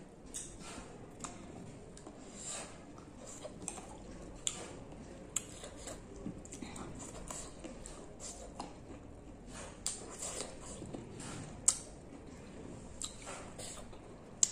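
Close-up mouth sounds of grapes being bitten and chewed: wet, squishy chewing with irregular short clicks, one sharper click a little before the end.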